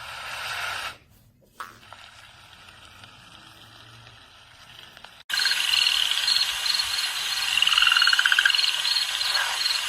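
Built-in sleep-sound tracks of an ODEJOI MP3 player: a white-noise hiss that swells and briefly drops out, then about five seconds in a sudden switch to a louder nature track of rapid, evenly repeated chirping calls.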